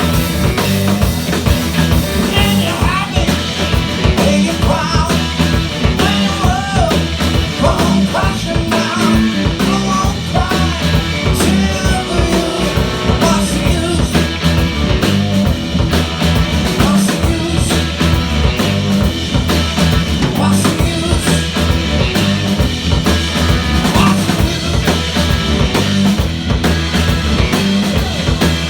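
Live rock band playing loud and steady, with a full drum kit, a bass line and a wavering lead melody over it.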